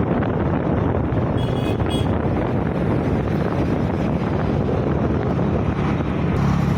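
Wind buffeting the microphone of a rider on a moving scooter, over steady engine and road noise. Two brief high tones come through about a second and a half in.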